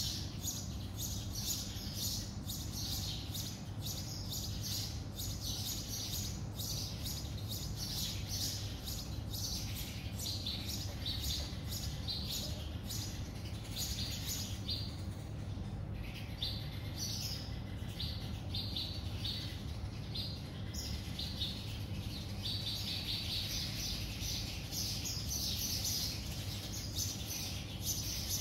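Small birds outdoors chirping and tweeting continuously: a dense run of short, high chirps, several a second, thinning out briefly about halfway through, over a steady low hum.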